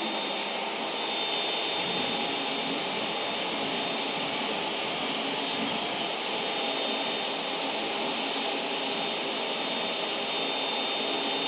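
Vacuum cleaner running steadily, a constant rushing hum with a faint high whine.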